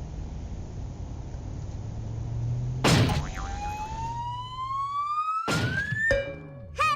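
A steady low motor rumble, then a sharp crash about three seconds in. A single whistle tone follows and rises steadily in pitch for about three seconds, siren-like. A second crash comes near the end, and music starts.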